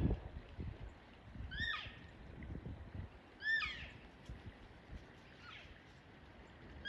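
An animal's short, high calls, each rising then falling in pitch, repeated about every two seconds, with one call fainter than the rest.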